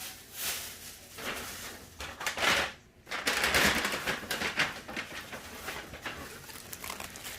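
Rustling and crinkling of firework packaging being handled, in irregular surges, loudest around the middle.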